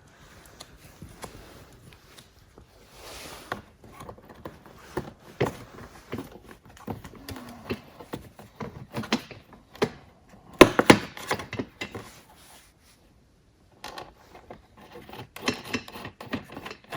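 Hand-work clatter of an electric ATV's footwell panel being fitted and its side bolts started: scattered clicks, knocks and rubbing, with a louder cluster of knocks about ten and a half seconds in and a short lull around thirteen seconds.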